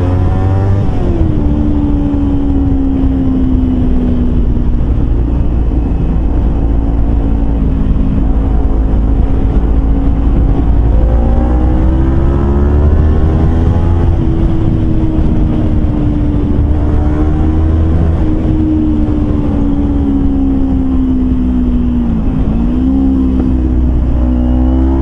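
Kawasaki Versys-X 250's parallel-twin engine running through a Norifumi slip-on muffler while the bike is ridden. The engine note climbs and eases with the throttle, and near the end there is a quick drop and climb in pitch.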